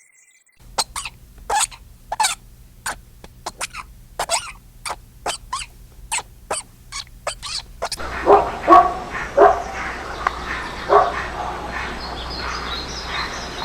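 Dogs barking: a quick run of short, sharp barks, then after about eight seconds a few fuller barks over a noisier background.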